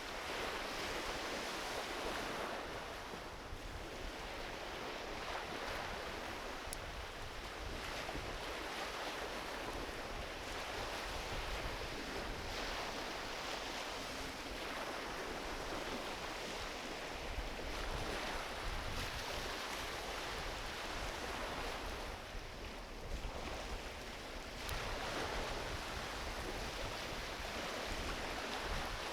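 Gentle ocean waves washing onto a beach in steady surf, swelling and easing every few seconds, with a low rumble underneath. A driftwood campfire gives a sharp crackle a couple of times.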